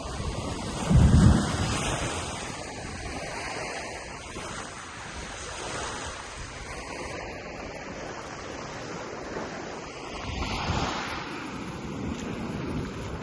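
Gulf of Mexico surf breaking and washing up the beach, with wind buffeting the microphone. A loud low thump about a second in, and the surf swells again near the end.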